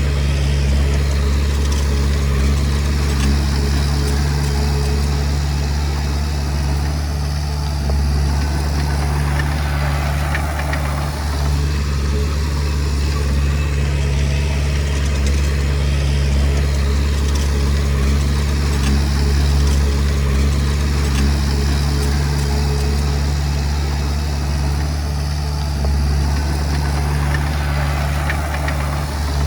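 Diesel engine of a Komatsu D20P crawler bulldozer running at a steady pitch, with a deep, even hum.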